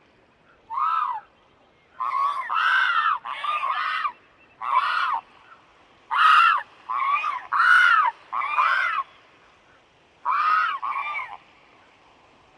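A bird calling about a dozen times in short, loud calls that rise and fall in pitch. Most come in quick clusters of two or three, with pauses in between.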